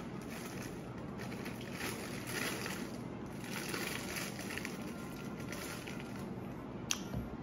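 A person chewing fried chicken nuggets, with a few soft chewing noises over a steady background hiss of room noise; a sharp click comes near the end.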